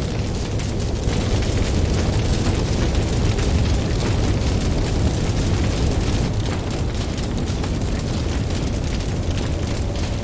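Campfire crackling with many small pops over the steady low rumble of ocean surf. A wave swells a little louder about a second in and eases off after five or six seconds.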